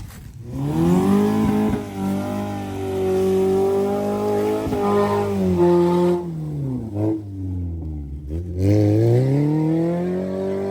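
1994 Honda Civic hatchback's four-cylinder engine revving hard: the revs climb about a second in and are held high, fall away to low revs around six seconds in, then climb again near the end, as the car is driven hard to get through the mud.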